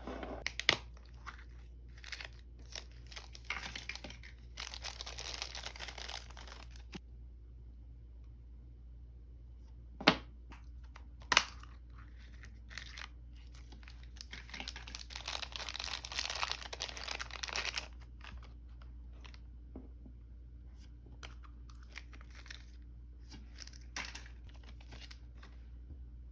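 Packaging being handled and unwrapped: two spells of crinkling and tearing, with a few sharp taps or clicks in between.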